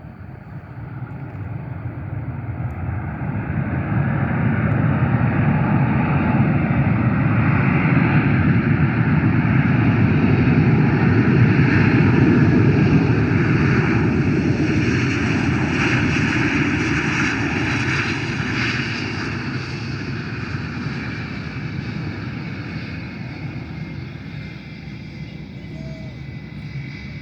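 Airliner passing close overhead. Its engine noise swells over the first few seconds, is loudest around twelve seconds in, then slowly fades away with a high whine that drops a little in pitch.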